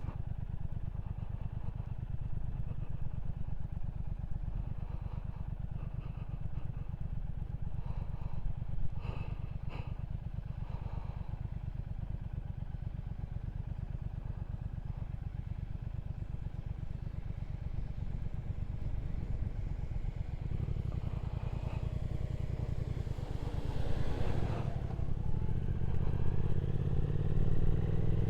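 Triumph Speed Twin 1200's parallel-twin engine running at a steady road speed. It grows louder and rougher over the last few seconds.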